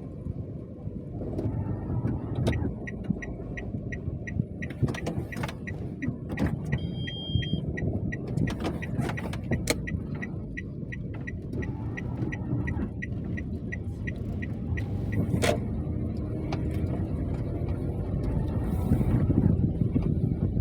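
Steady low rumble of a car on the move, with a run of regular ticks, about two and a half a second, starting a couple of seconds in and stopping about three-quarters of the way through.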